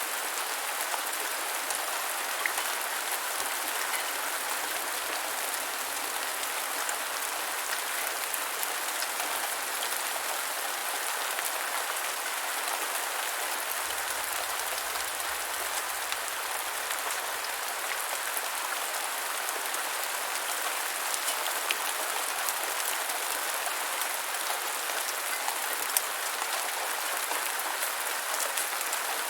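Steady rain falling on the ground, an even patter with scattered individual drop ticks.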